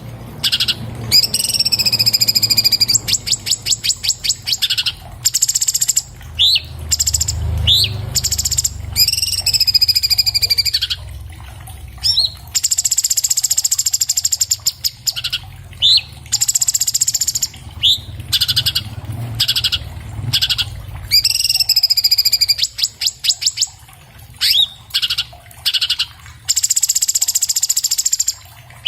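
Orange-bellied leafbird (cucak cungkok) singing a fast, dense, varied song. It mixes bending whistled phrases, rapid buzzy trills and short upward-sweeping notes, with brief pauses between phrases, over a low background hum.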